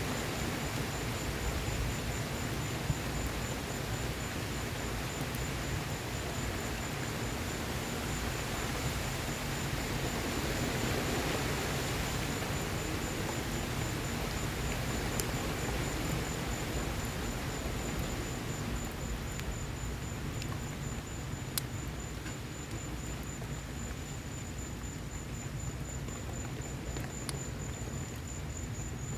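Steady rain falling around a wood fire burning in an outdoor patio fireplace, a constant hiss with a few sharp crackling pops from the burning wood. A high, even trill runs underneath.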